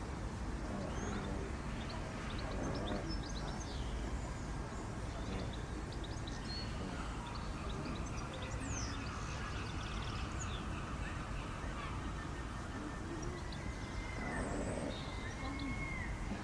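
Zoo background ambience: a steady low rumble with small bird chirps scattered throughout, and faint distant voices about three seconds in and again near the end.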